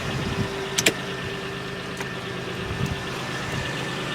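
1995 Chevrolet Monte Carlo's 3100 V6 idling steadily after a cold start, with a sharp click about a second in and a fainter one shortly after.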